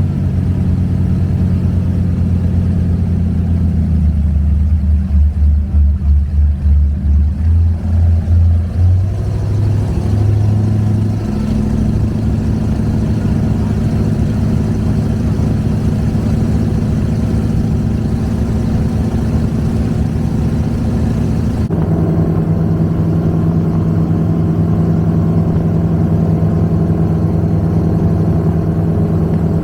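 Twin big-block V8 engines of an Avanti 33 power boat running. Their note pulses slowly and regularly for several seconds a few seconds in, then settles. The tone changes abruptly about 22 seconds in.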